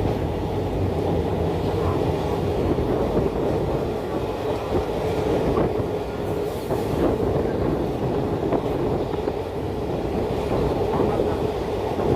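Express passenger train running along the track: a steady rumble of the coaches, with faint clicks of the wheels over the rail joints.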